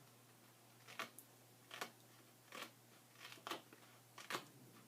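Scissors snipping paper, a series of short separate cuts about one a second, as edges are trimmed.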